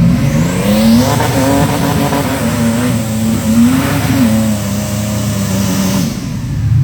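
Turbocharged 4.0 SOHC V6 in a Ford Ranger revving hard under load, held high near the rev limiter. The pitch rises about a second in, wavers, and drops back shortly before the end.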